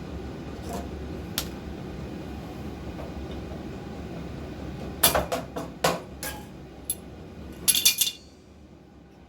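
Metal objects clinking and clattering: a few sharp knocks about five seconds in and a quick flurry of clinks near the end, over a steady hum that drops away just after.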